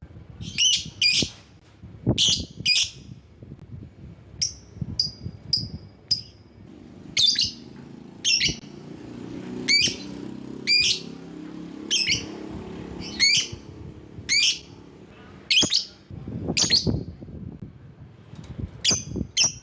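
Lovebird calling: short, shrill chirps repeated about once a second, often in quick pairs.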